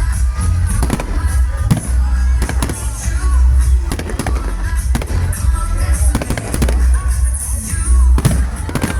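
Fireworks going off: a run of sharp bangs and crackles over a deep low rumble, with music playing underneath.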